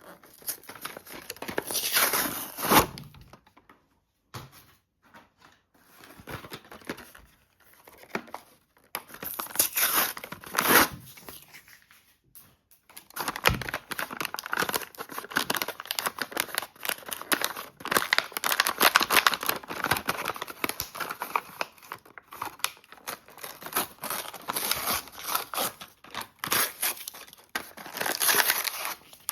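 Toy-car packaging being torn open by hand: cardboard ripping and plastic crinkling in irregular spells, with a few short pauses between them.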